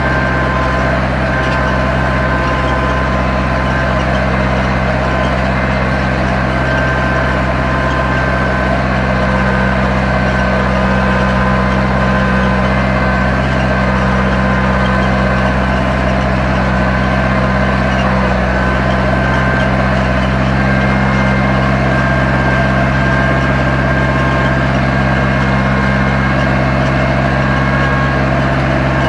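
Zetor 7245 tractor's four-cylinder diesel engine running steadily while pulling a plough.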